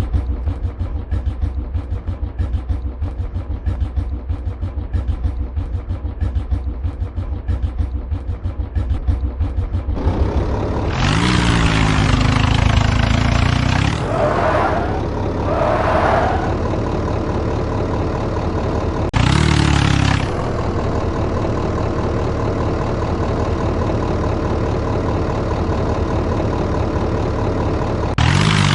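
Tractor engine running with a steady low beat, then revved hard about ten seconds in. Two brief higher sounds follow, and there are shorter revs about two-thirds of the way through and again at the end.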